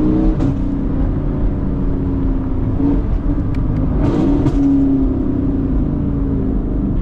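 Car engine revving hard, its pitch dropping and climbing again a couple of times as the car's wheels spin on ice.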